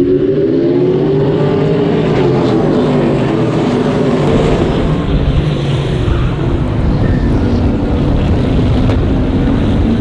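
Trans Am race cars' V8 engines running hard at racing speed, loud and continuous. In the first few seconds the engine note rises and falls as the revs change.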